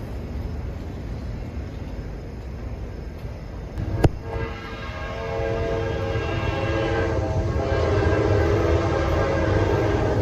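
Diesel freight locomotive rumbling on approach, then its multi-chime air horn starts sounding about four seconds in, several steady notes together, and keeps blowing with a brief dip near the middle. A sharp click comes just before the horn.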